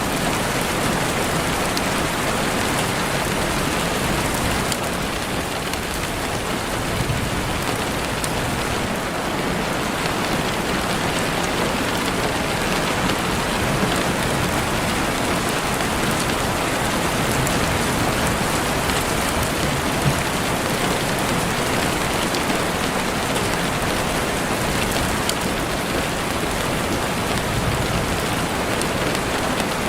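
Heavy rain falling steadily on leaves and the forest floor: a dense, even hiss with scattered individual drop ticks.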